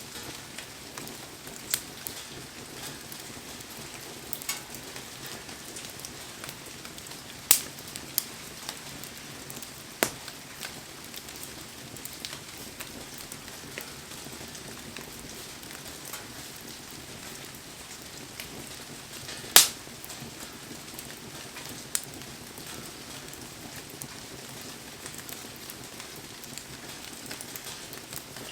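Wood fire crackling, with sharp pops every few seconds, over a steady hiss of heavy rain.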